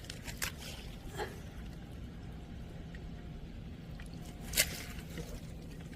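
A few short wet squelches, the loudest about four and a half seconds in, over a low steady background.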